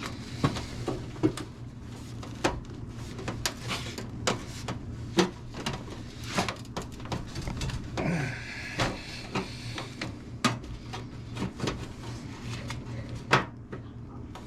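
Irregular sharp clicks and light knocks of a sheet-metal patch piece being handled, tapped and test-fitted, with a brief scrape about halfway through, over a steady low hum.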